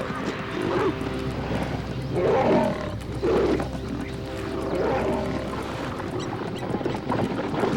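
Lions growling, a series of rough, rising-and-falling calls every second or two.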